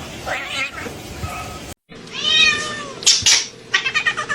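A domestic cat meowing: one long meow that rises and falls a couple of seconds in, then shorter, choppy calls near the end.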